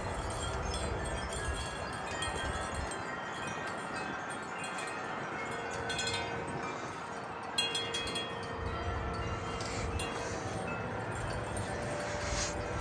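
Wind chimes ringing in the breeze: several overlapping, sustained tones, with a few sharper strikes about six and seven and a half seconds in.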